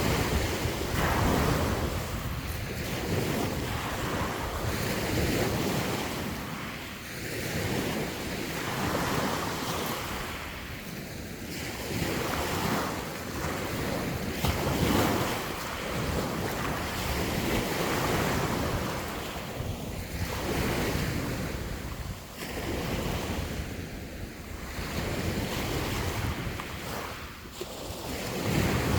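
Sea waves breaking and washing on the shore, swelling and ebbing every few seconds, with wind buffeting the microphone.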